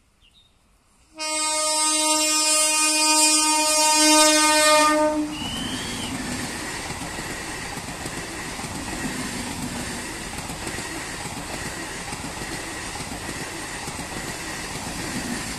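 An electric multiple unit (EMU) train sounds one long horn blast of about four seconds, starting about a second in, then its coaches run past with a steady rumble of wheels on rail.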